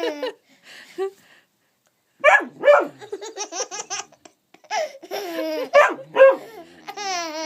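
A dog barking on command, a run of barks starting about two seconds in, mixed with a baby's laughter.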